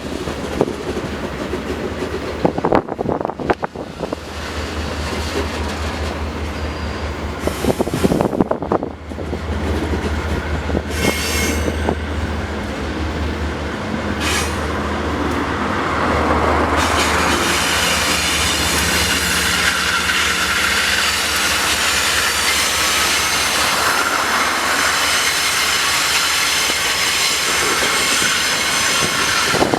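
Freight train wagons rolling past on a curve: a low rumble with the knock of wheels over rail joints, then, about halfway through, a steadier, louder grinding squeal of wheels on the curved rail.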